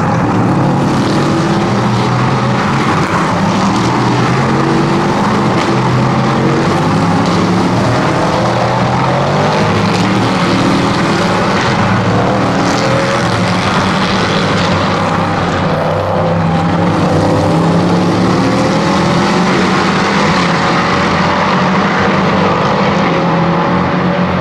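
LMP3 prototype race cars' naturally aspirated V8 engines running hard on track, several engine notes overlapping and repeatedly rising in pitch as the cars accelerate.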